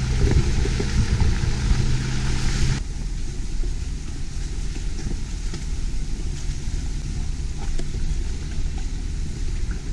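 Off-road vehicle's engine running with a low rumble while driving a trail. About three seconds in, a steady engine hum and hiss cut off abruptly, leaving a rougher low rumble.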